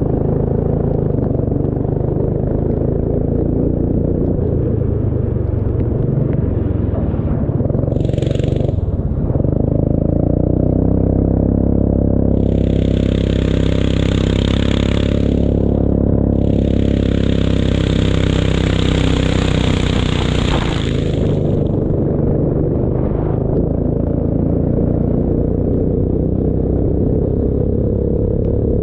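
Racing engine running hard at a steady pitch, with three spells of hissing noise over it, the longest near the middle.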